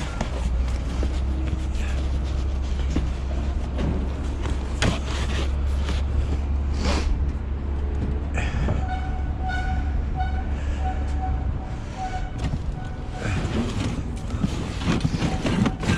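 A heavy engine running at the scrapyard, with scattered metal clanks and knocks. About halfway through a backup alarm starts beeping about twice a second, and near the end the engine's low rumble drops away.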